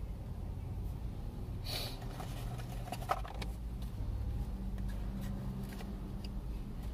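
Steady low hum of a stopped car's engine running, heard inside the cabin. A short rustle comes about two seconds in and a few light clicks about a second later.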